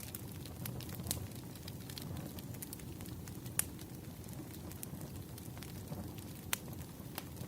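Wood fire burning with a steady low rumble and irregular sharp crackles and pops, two louder pops in the second half.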